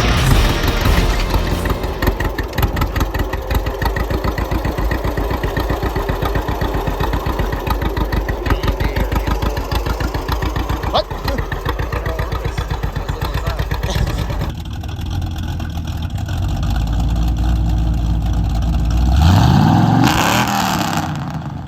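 A vehicle engine runs with a steady rhythmic beat of firing pulses, then revs up with a rising pitch near the end. Voices can be heard as well.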